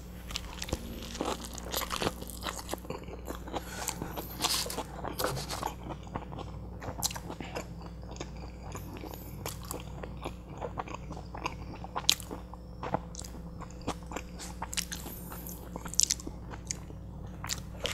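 Mouth sounds of eating a huge butter chicken burrito: bites into the toasted tortilla and chewing, with many small crunches and wet clicks.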